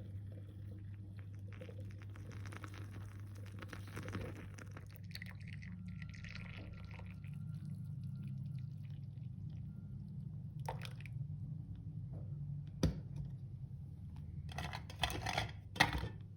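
Liquid being poured into a cup or bowl, followed by several sharp clicks and knocks of tableware near the end, over a steady low hum.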